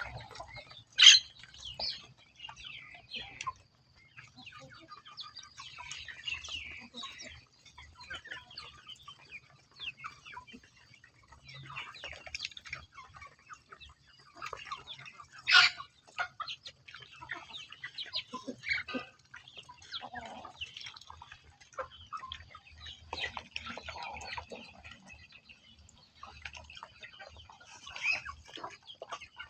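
Poultry calling in short scattered notes, with two sharper, louder calls, one about a second in and one about halfway through.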